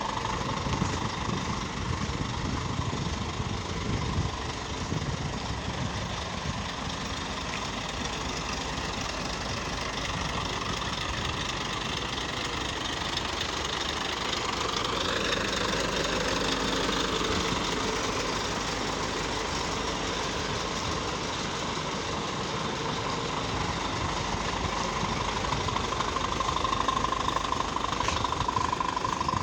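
Scania diesel engine idling steadily, with a brief rise and fall in pitch around the middle.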